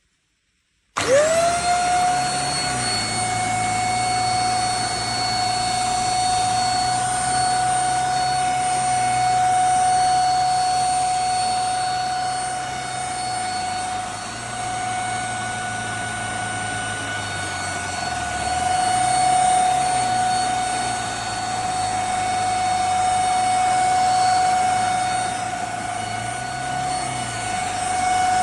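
Handheld mattress vacuum cleaner switched on about a second in, its motor spinning up quickly to a steady high whine over rushing air. The lower hum underneath shifts in pitch now and then.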